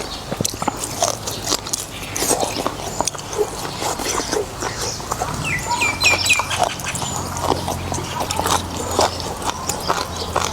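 Close-up eating sounds of noodles in beef soup: wet slurping, chewing and smacking, with many short clicks throughout. About six seconds in, four quick rising chirps sound, and a low steady hum runs underneath.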